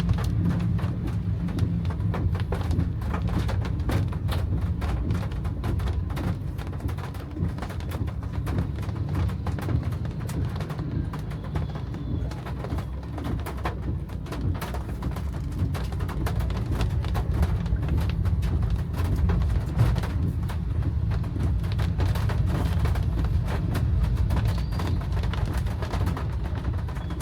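Rain hitting a car, heard from inside, as many fine ticks over a steady low rumble of the car's engine and road noise.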